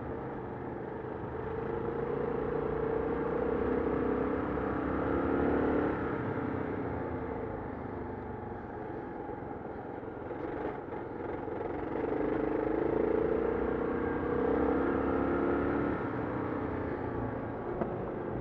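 Adventure motorcycle engine running while riding, heard from a helmet-mounted camera. The engine note rises and swells twice, first about two seconds in and again about twelve seconds in, and eases off in between.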